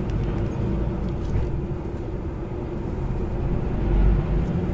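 Semi-truck running along the road, heard from inside its cab: steady low engine and road rumble with a steady hum, swelling briefly about four seconds in.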